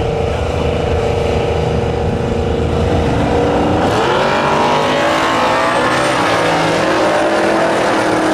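Twin-turbo big-block V8 drag-racing pickup running with a steady heavy rumble, then about four seconds in it climbs sharply in pitch as it launches and accelerates hard down the strip.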